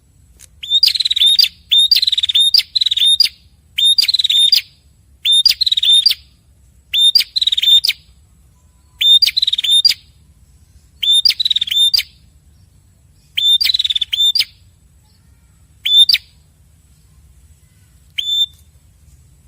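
Red-headed prenjak (Indonesian 'prenjak kepala merah'), male and female calling back and forth. A string of short, sharp, chattering call bouts, each under a second, with high notes that drop in pitch, repeated every one to two seconds. The last bout near the end is shorter. A faint low hum runs beneath.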